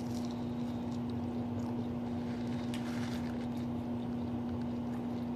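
Steady low electrical hum holding one pitch throughout, with a few faint soft ticks over it.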